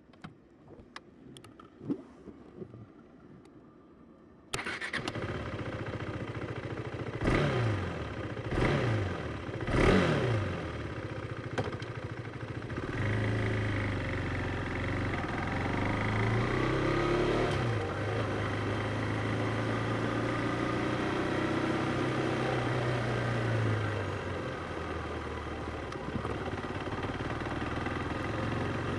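KTM Duke 390's single-cylinder engine starting up after a few faint clicks about four seconds in, then three quick throttle blips. It then settles into a steadier, higher running note that rises and falls and eases off near the end.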